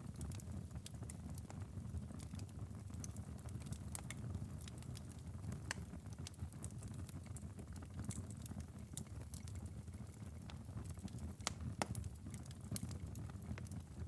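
Wood fire crackling in a fireplace: a steady low rumble of the flames with irregular small pops and snaps, a couple of louder pops about three-quarters of the way through.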